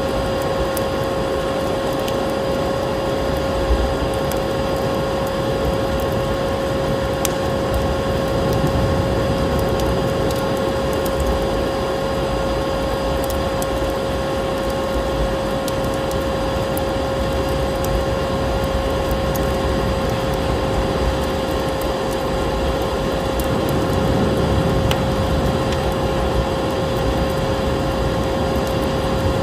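Steady vacuum cleaner drone with a constant hum, layered with a continuous rushing wind-like noise and scattered small crackles of a wood fire.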